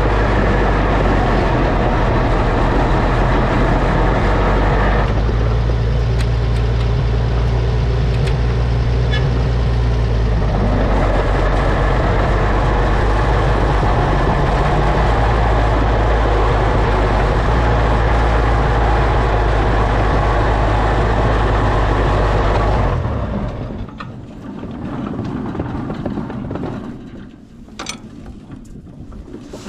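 Oliver OC-6 crawler tractor's engine running steadily, then dying abruptly about 23 seconds in, leaving only faint clanks. It is an unexpected stall: the tank still holds fuel.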